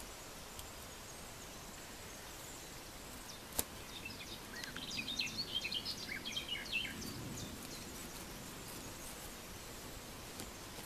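A small bird chirping a rapid run of short, high notes for about three seconds, starting about four seconds in, over a steady faint hiss. A single sharp click comes just before it.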